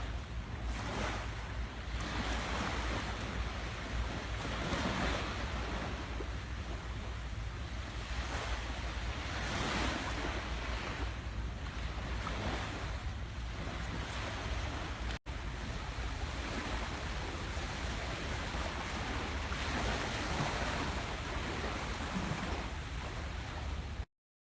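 Small sea waves washing onto a sandy beach in a steady, repeating wash that swells every two to three seconds, over a low wind rumble on the microphone. The sound drops out for an instant about halfway through and cuts off just before the end.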